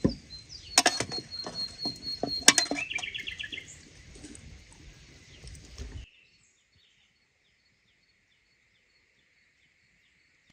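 Birds chirping, with a few sharp knocks in the first few seconds. About six seconds in the sound drops almost to silence, leaving only faint, regular chirps.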